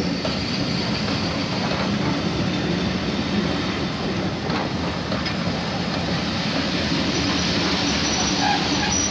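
Railway passenger coaches rolling past close by: a steady rumble and rattle of steel wheels on the rails, with a faint high squeal near the end.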